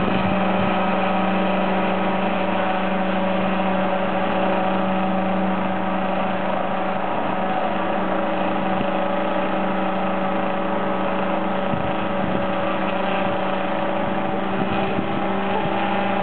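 Unmanned helicopter hovering, its rotors and motor giving a steady, even whine, over the constant rush of a large waterfall.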